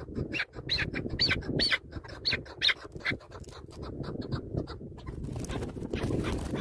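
Chukar partridge giving a run of about six short squawking calls in the first three seconds, over steady rustling and scuffing noise.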